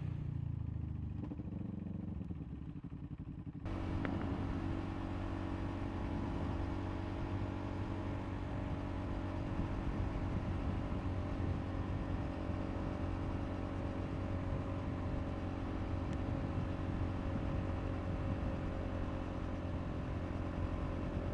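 KTM RC390 single-cylinder motorcycle engine running at a steady pitch under a hiss of wind. About three and a half seconds in, the sound jumps abruptly louder and fuller, then holds steady.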